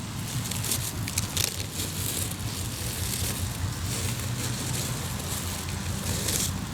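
Hardwood campfire in a fire pit crackling, with scattered sharp pops over a steady low rumble.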